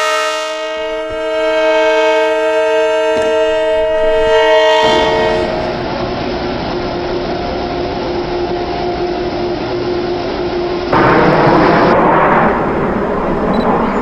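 Long Island Rail Road electric train's multi-note horn sounding a chord for about five seconds, then the train rolling past with steady wheel-on-rail noise and a faint whine, with a louder rush about eleven seconds in.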